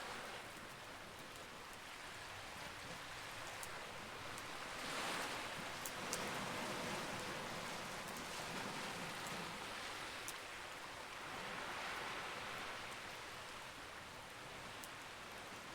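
Campfire burning with scattered sharp crackles over a steady hiss that swells twice, about five and twelve seconds in.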